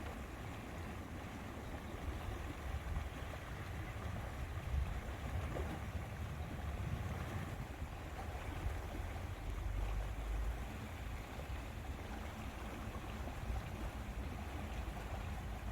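Wind gusting over the microphone with a low, uneven rumble, over small waves lapping at the lake shore.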